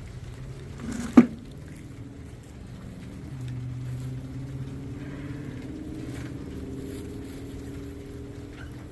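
Soil being dug through by hand in a container while searching for sweet potatoes, with a sharp knock about a second in. A low steady hum joins from about three seconds in.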